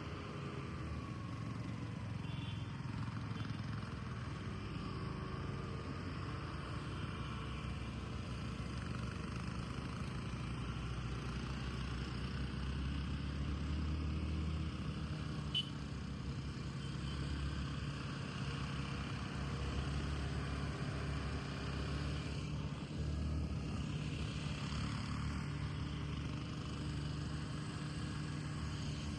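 Steady low rumble of a moving road vehicle, its engine and tyre noise running on without a break, with one brief click about halfway through.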